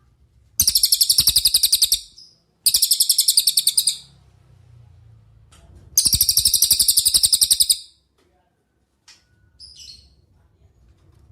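Cililin songbird singing three loud, fast rattling trills, each a rapid even string of high notes lasting about one and a half seconds, followed by a couple of faint short call notes near the end.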